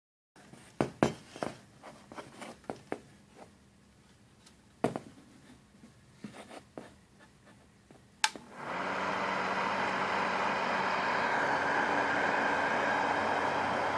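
Vintage 1950s Handy Hannah hair dryer: a few scattered clicks and knocks of handling, then a sharp click, and its motor and fan start running with a steady rush of air over a low hum.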